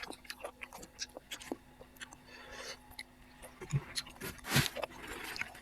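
Close-up mouth sounds of a person eating: wet chewing with many short lip-smacking clicks, and a louder breathy slurp about four and a half seconds in.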